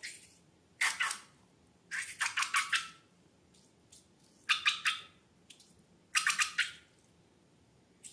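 Slime being squeezed and squished, making wet squelches in four bursts. Each burst breaks into a quick run of crackling pops as air is pressed out of the slime.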